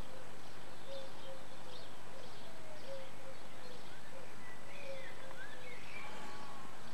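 Faint bird calls through a steady hiss: a string of short, low whistled notes, then a few quick rising and falling chirps near the end.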